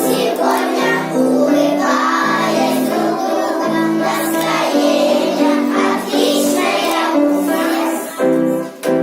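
Children's song with children singing along to a backing track with a steady melody.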